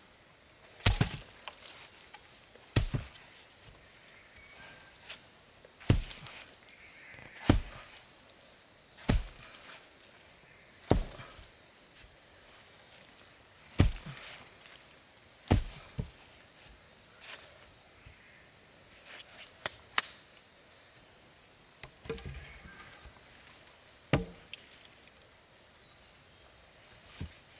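Axe chopping wood: about a dozen sharp strokes, one every couple of seconds.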